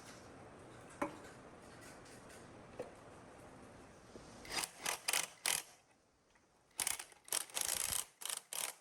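Hand work in a workshop: a few light clicks, then a run of short rubbing strokes in two groups, about four and then about six.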